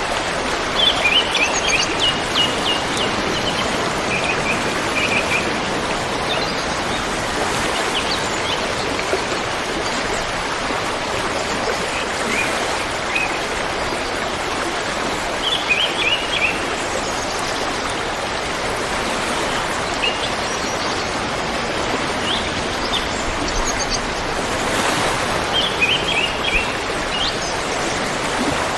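River water flowing and rushing steadily, with small birds chirping in short bunches of quick notes every few seconds over it.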